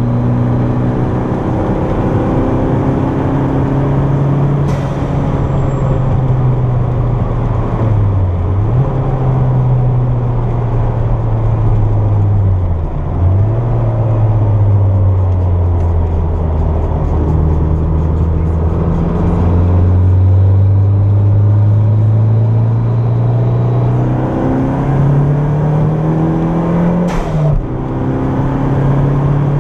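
Turbocharged Toyota MR2 engine under load on track, heard from inside the cabin. Its note dips and recovers twice about a third of the way through, holds a lower pitch for a while, then climbs and drops after a sharp click near the end, like a gear change.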